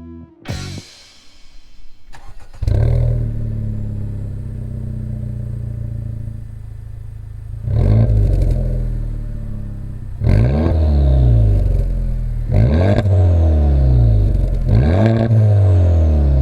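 Honda Civic Type R FK8's turbocharged K20C four-cylinder, breathing through an HKS Hi-Power Spec-L muffler, is cranked and catches about two and a half seconds in, then idles steadily. It is then revved in four free-revving blips, each rising and falling.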